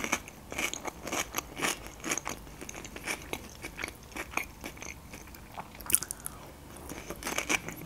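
Close-miked eating: chewing and wet mouth clicks, with a sharp crunchy bite into a piece of raw cucumber about six seconds in.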